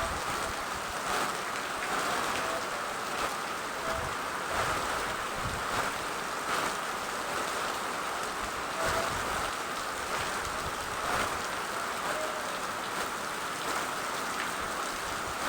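Steady rain falling, an even hiss of drops with slight swells in loudness every second or so.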